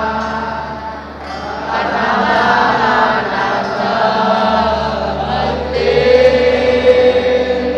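Crowd of football supporters singing a chant together, holding a long note in the second half.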